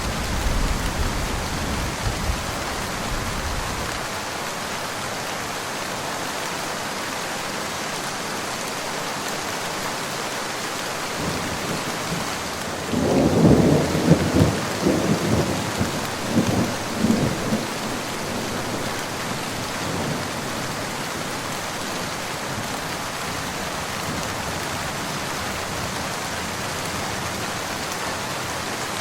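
Steady rain falling, with thunder. A low rumble fades away in the first few seconds. About halfway through, a louder peal of thunder rolls in several cracks over about five seconds, then only the rain is left.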